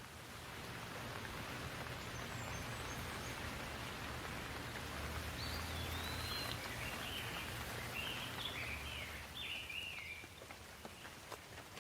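Steady rain falling, swelling over the first few seconds and easing about ten seconds in. A bird chirps repeatedly through the middle.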